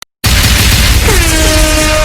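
Dancehall DJ sound effect starting suddenly and loud after silence, with heavy bass under a dense noisy blast; about a second in, several horn-like tones slide down and then hold steady.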